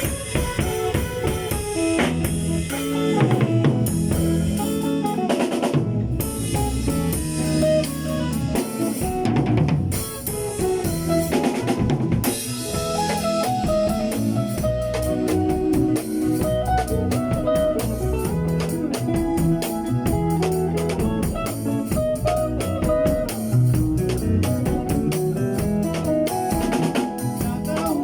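Instrumental music: a drum kit plays a steady beat of kick and snare hits over sustained pitched backing instruments, with no singing.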